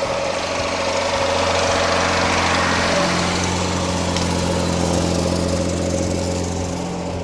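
Mercedes Unimog's diesel engine running steadily, a little louder in the middle and easing off near the end.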